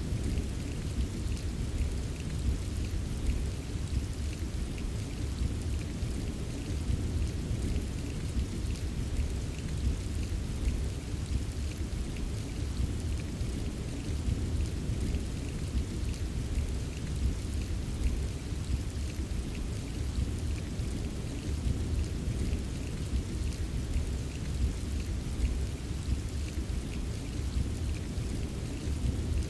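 Steady heavy rain with a deep continuous low rumble and a faint patter of drops, unchanging throughout.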